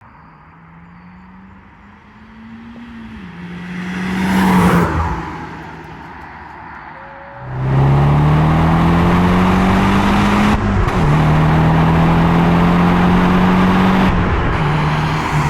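Nissan S15 Silvia's engine through a titanium sport exhaust: the car comes up and goes past about five seconds in, its note dropping as it passes. Then, about seven and a half seconds in, the engine pulls hard with the pitch rising, drops at a gear change about three seconds later, and drops again near the end.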